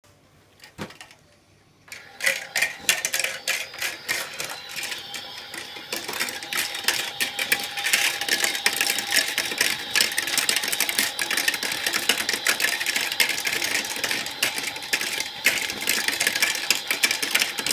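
Battery-powered toy washing machine running: a rapid, continuous mechanical clatter of clicks and rattles with a faint steady whine, starting about two seconds in.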